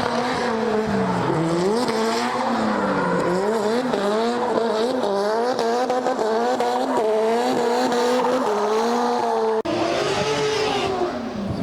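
Drift car engine at high revs, its pitch rising and falling quickly over and over as the throttle is worked, with tyre squeal. About ten seconds in the sound breaks off abruptly, and an engine then dips in pitch and climbs again.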